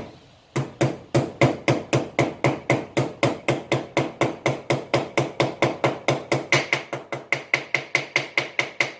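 Steady, light hammer taps, about five a second, drive a bearing seal into a mower's front wheel hub, each tap with a short ring.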